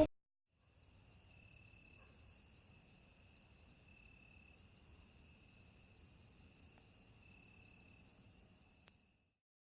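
A steady high-pitched tone with a slight wavering in level. It starts about half a second in and stops shortly before the end.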